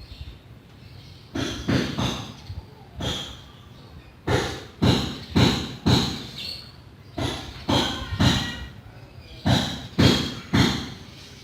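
Short rubbing strokes of a hand tool applying clear finish over a wooden cabinet surface: about a dozen strokes, roughly one every half second, in runs with brief pauses between, over a faint low hum.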